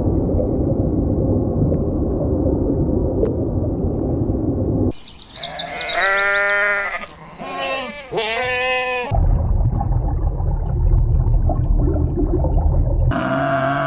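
Bleating: several wavering, pitched calls from about five to nine seconds in, with a low rumbling noise before and after them.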